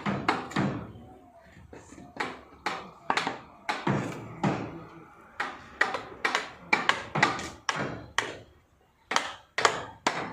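A series of sharp knocks and thuds on wood, irregular at roughly two a second, each with a short ring after it.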